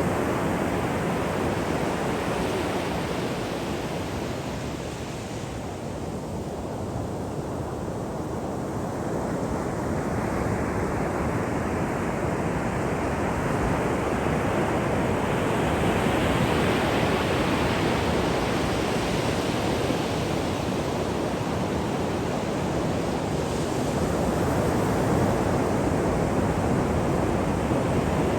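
Ocean surf washing on a shore: a continuous rush of breaking waves that eases off briefly about a fifth of the way in, then builds and swells again as the next waves break.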